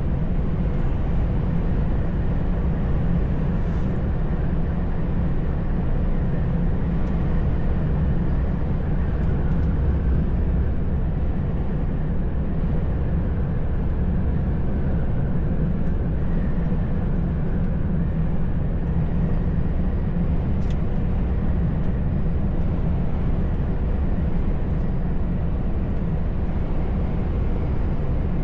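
Steady low drone of a truck's engine and tyre noise while driving, heard from inside the cab.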